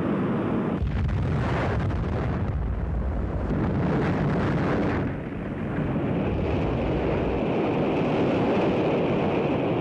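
An Atlas-Centaur rocket exploding in flight: a sudden deep blast about a second in, followed by a continuous rumbling roar.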